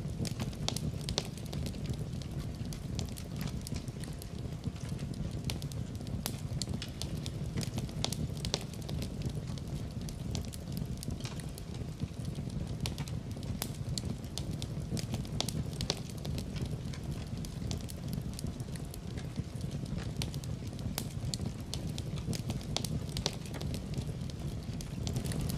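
Wood fire crackling in a fireplace: a steady low rumble of flames with frequent small pops and snaps scattered throughout.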